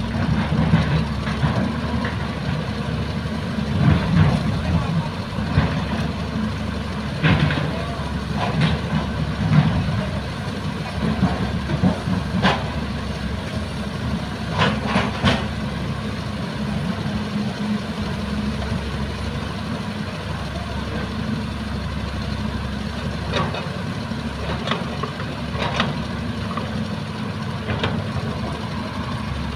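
Heavy diesel excavator engines running steadily, with sharp knocks and clanks every few seconds.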